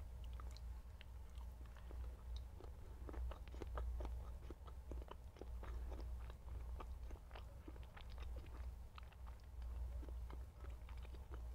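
A person chewing soft food close to the microphone, with irregular short wet mouth clicks, over a steady low hum.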